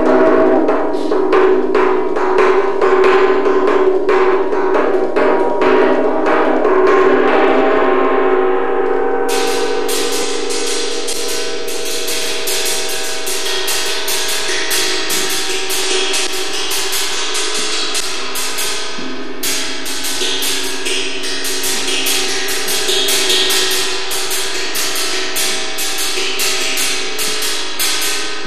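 Live percussion music for dance: quick, evenly repeated strikes over sustained ringing pitches, growing brighter about nine seconds in.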